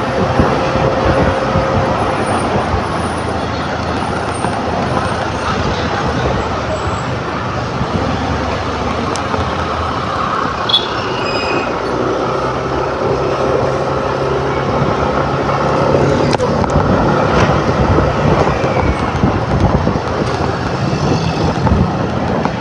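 Steady road and traffic noise heard from a moving motor scooter: the scooter's engine and rushing air, with other vehicles passing.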